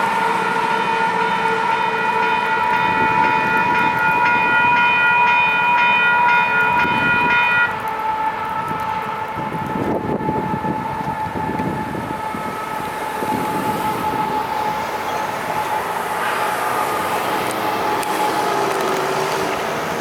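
Union Pacific intermodal freight train rumbling over a railroad crossing while the crossing's electronic signal bells ring. The loudest bell stops abruptly about eight seconds in, and a fainter ringing carries on as the train noise fades.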